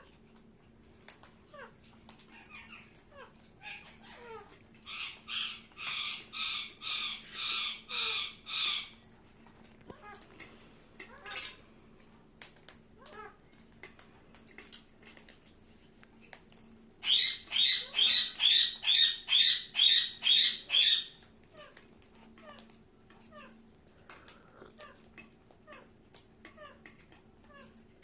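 Parakeet giving two runs of loud, harsh repeated calls, about two a second in the first run and faster and louder in the second, about halfway through, with soft short chirps in between.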